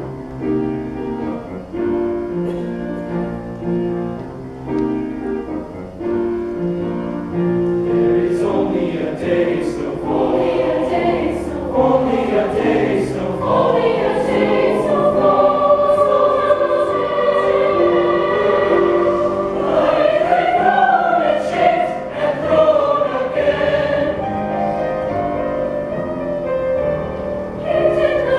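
Concert choir singing a slow choral piece in parts, with long held chords; softer and more broken at first, fuller from about eight seconds in.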